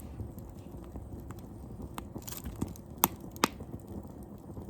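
Wood fire crackling: scattered sharp pops over a low steady rumble, the two loudest a fraction of a second apart about three seconds in.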